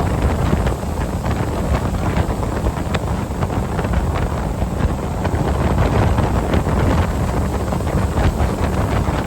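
Heavy wind buffeting the microphone on a moving waterski tow boat, a steady rumbling rush with water noise beneath.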